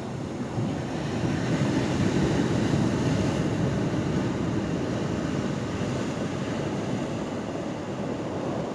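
Ocean surf washing in at a pier, a rushing swell that builds about a second in and then slowly ebbs.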